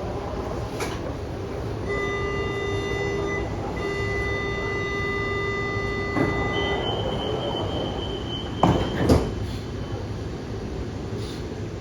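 São Paulo Metro Line 15 monorail's door-closing warning: two long steady electronic tones, then a higher tone, followed by two thuds as the doors shut, over the steady rumble of the train.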